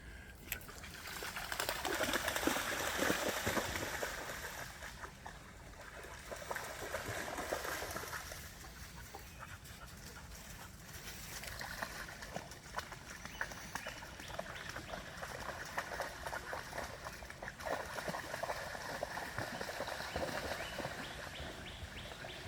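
Shallow creek water trickling, with fine crackling rustles over it that swell and fade a couple of times.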